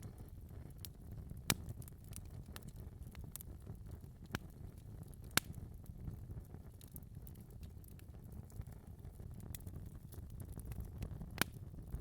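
Wood fire crackling in a fireplace: a low steady rumble of the flames with scattered sharp pops and snaps, three louder pops about a second and a half, five and a half and eleven and a half seconds in.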